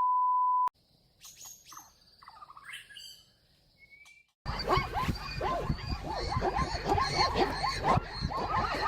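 A short steady beep tone, then faint scattered chirps. About halfway through, a dense chorus of many animals starts up, giving short rising yipping calls that overlap several times a second.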